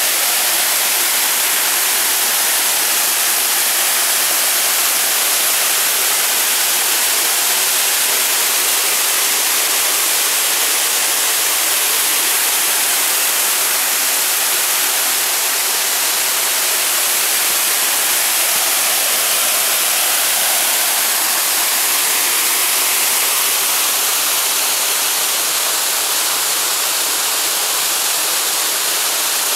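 Small waterfall cascade, water falling and rushing in a steady, loud, unbroken sound.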